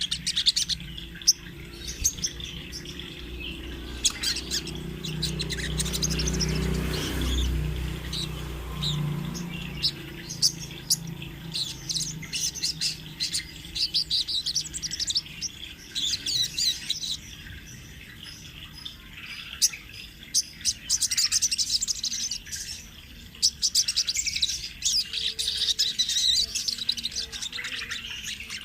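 Sogok ontong, the brown-throated sunbird, singing steadily in long runs of rapid, high chirps and trills. A low rumble sits under the song for a few seconds near the start.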